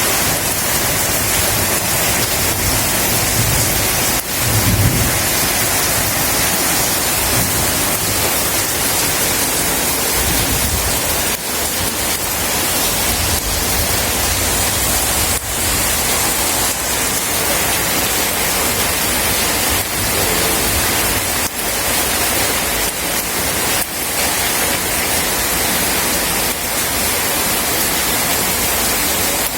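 Steady rain falling, with a low rumble of thunder swelling about four to five seconds in.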